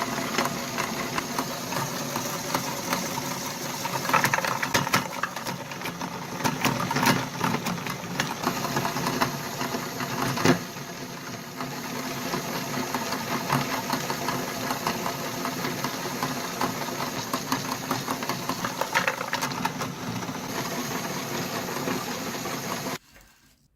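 Meat grinder running: a steady mechanical hum with dense crunching and clicking as something is forced through it. It stops abruptly near the end.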